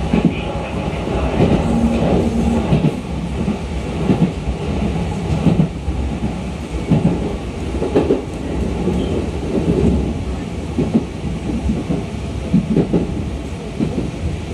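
Running noise of a 211 series electric multiple unit heard from inside the carriage: a steady low rumble of wheels on rail with irregular knocks and clatter from the track, as the train pulls into a station.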